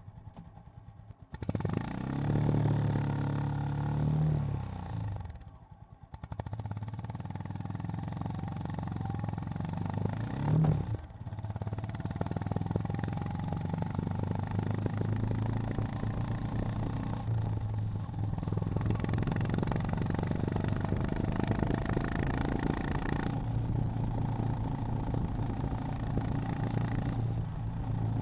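Honda GB350's air-cooled single-cylinder engine on the move: after a quiet first second it picks up, its pitch rising for about two seconds and then falling away to a brief lull. It then runs steadily at a fairly even pitch, with one short rev about ten seconds in.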